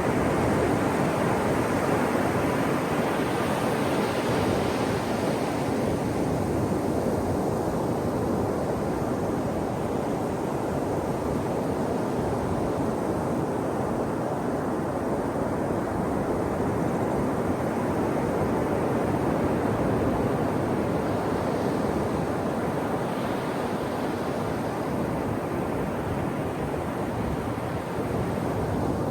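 Ocean surf breaking on a shore: a steady wash of noise that swells and eases slowly.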